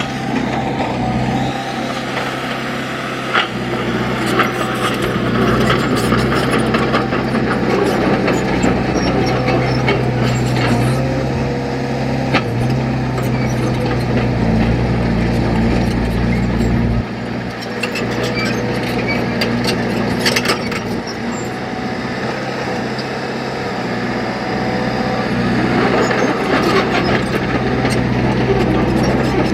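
Diesel engine of heavy earthmoving machinery running steadily, with scattered sharp metal knocks and clanks; the deepest rumble drops out abruptly partway through.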